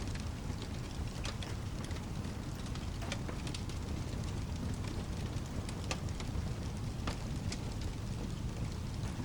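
Rain and a crackling wood fire mixed together: a steady, deep rush of rain with scattered sharp pops and crackles throughout.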